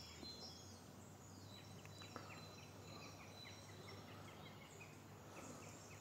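Near silence with faint birdsong: scattered short, high chirps from small birds throughout.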